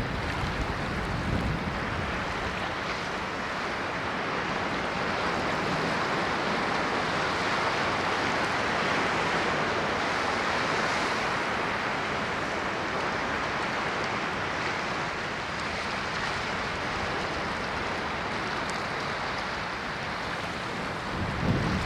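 Ocean surf washing steadily, swelling towards the middle, with a low rumble near the start and again near the end.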